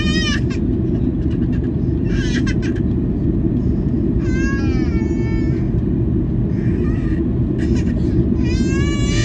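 Steady low rumble of a Boeing 737-800's engines and airflow heard inside the cabin. Short, high-pitched wailing cries that rise and fall come over it every couple of seconds.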